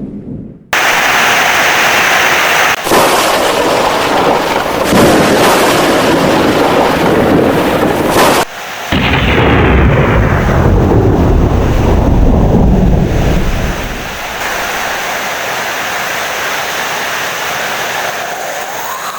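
Heavy rain with rolling thunder. The sound is spliced in sections: it cuts out abruptly just after the start and again about eight and a half seconds in. A deep thunder rumble is strongest in the middle, then the sound settles to steady rain.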